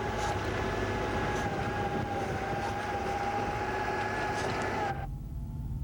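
Steady mechanical drone with a low rumble and a steady high whine, cutting off abruptly about five seconds in.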